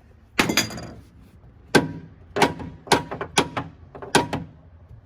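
Hammer blows on a bent metal tab, knocking it back straight: about six sharp strikes, unevenly spaced half a second to a second apart, each with a short metallic ring.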